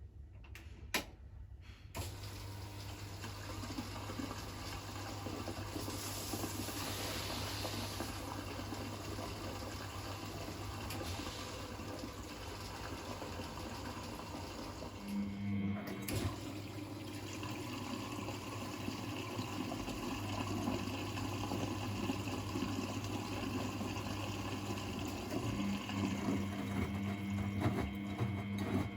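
Miele Novotronic W921 washing machine taking in water: a steady rush of inflowing water over the low hum of the inlet valve, starting with a click about two seconds in and briefly changing about halfway through.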